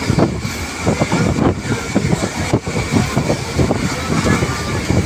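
Passenger train running along the line: a steady rumble with irregular knocks and rattles from the wheels and carriage, and a faint steady high whine.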